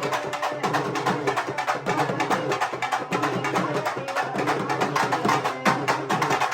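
Urumi melam, a Tamil folk drum ensemble, playing a fast, dense, unbroken run of drum strokes.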